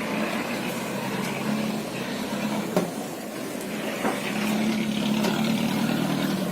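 Houseboat engine running with a steady low hum as the boat manoeuvres after reversing, with two short clicks about three and four seconds in.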